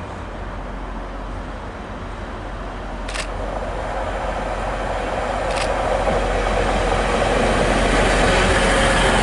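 A passenger train approaching, its rumble growing steadily louder, with two sharp clicks a couple of seconds apart partway through.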